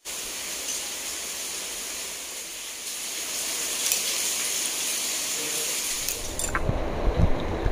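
Heavy rain: a steady hiss of downpour. About six and a half seconds in, it cuts to a low rumble with a few thumps.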